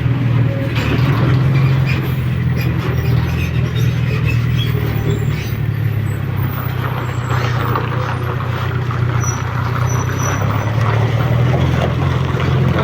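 Motorcycle engine running at a steady pace while under way, a constant low hum, with wind rushing over the microphone.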